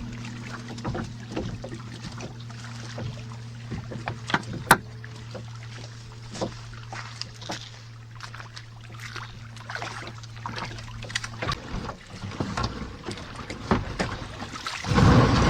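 Scattered knocks and clicks of paddles and gear against kayak hulls on the water, over a steady low hum that stops about eleven and a half seconds in. A loud rush of noise comes near the end.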